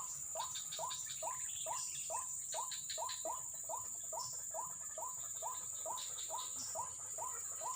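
White-breasted waterhen (ruak-ruak) calling: a steady run of short rising notes, a little more than two a second.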